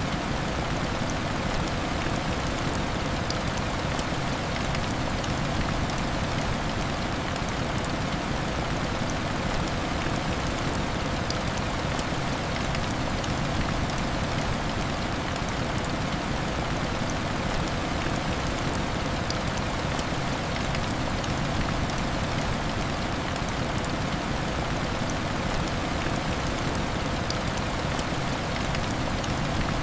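Steady heavy rain falling on a window, an even rushing hiss with faint scattered ticks of drops throughout.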